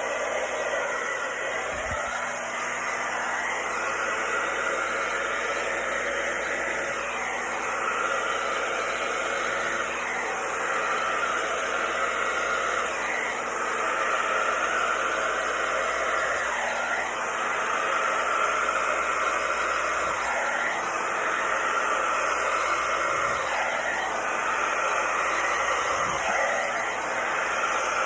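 Hair dryer on a low, cool setting blowing acrylic pour paint across a canvas: a steady airy hiss whose tone shifts slightly every few seconds.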